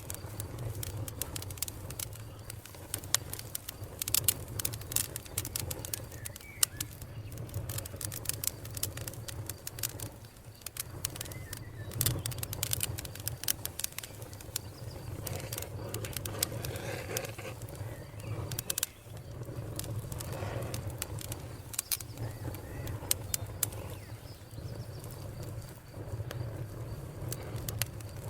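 Wood fire crackling in a fireplace: many irregular sharp snaps and pops over a low, steady rumble of the burning logs.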